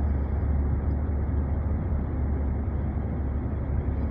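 Steady road and engine rumble of a car heard from inside the cabin while driving, deep and even.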